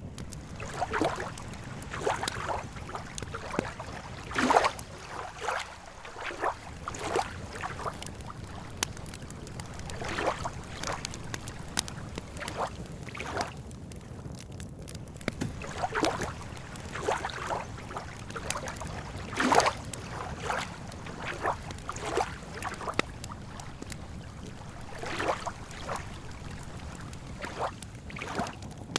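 Campfire wood crackling and popping at irregular intervals, with a couple of louder pops, over a steady low wash of lake water lapping.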